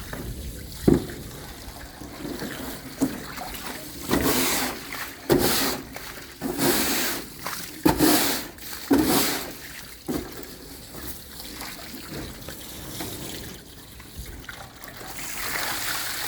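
Water splashing and sloshing in uneven surges as a cattle trailer is washed out.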